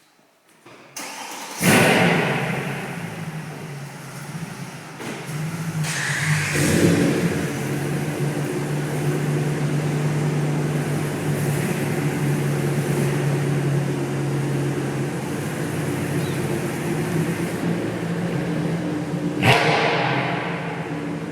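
A Mercedes-AMG C63 V8 with a decatted exhaust starts about a second and a half in with a loud flare, then settles. Around six seconds in the engine rises into a steady, raised engine note that holds. Near the end a sharp, loud blip of the throttle cuts through.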